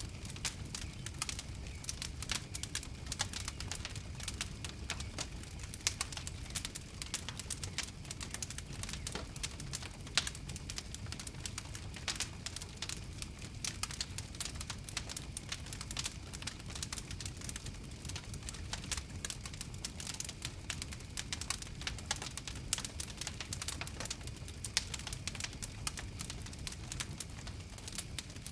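Campfire crackling: a dense, irregular run of small pops and snaps over a low, steady rumble of the flames.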